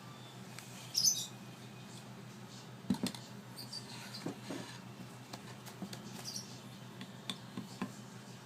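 African grey parrot chick giving a few short, high squeaks, the begging calls of a chick being hand-fed, with small clicks and taps between them over a steady low hum.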